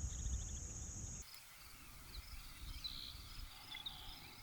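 Faint marsh ambience: a steady high insect drone that cuts off abruptly about a second in, followed by scattered short, high bird chirps over a low rumble.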